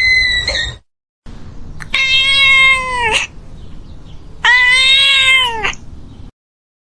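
Domestic cat meowing twice, two long drawn-out meows of about a second each that drop in pitch at the end. A short, higher-pitched animal call sounds in the first second.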